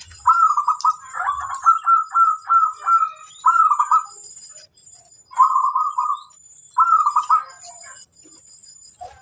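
Zebra dove (perkutut) cooing: a quick string of short rolling notes for about four seconds, then two shorter phrases after a pause.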